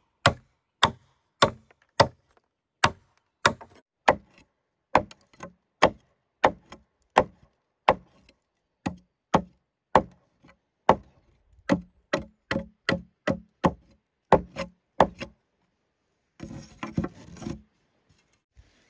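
Chopping blows on wood or bamboo, a steady run of sharp strikes about one to three a second. They stop, and near the end there is a brief rustle.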